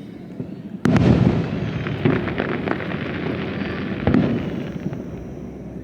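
Town fireworks display: a loud shell burst about a second in, followed by a run of crackling pops, and a second burst about four seconds in that fades away.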